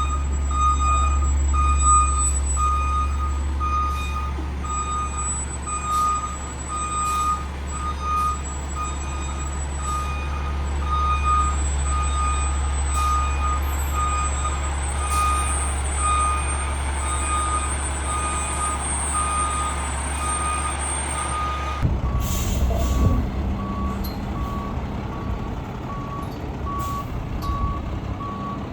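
Fire truck backing up, its reversing alarm beeping about twice a second over the steady running of its diesel engine. About two-thirds of the way through, the sound switches to another truck's backup alarm, slightly lower in pitch.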